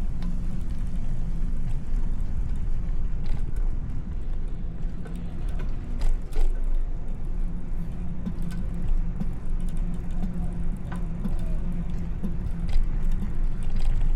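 Steady low rumble of street traffic and rolling noise on a city bicycle ride, with a faint engine-like hum and a few sharp clicks and knocks scattered through.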